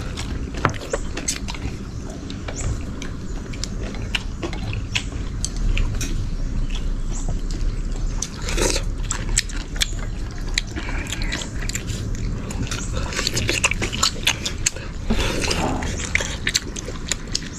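People eating: chewing and biting, with many small irregular clicks throughout.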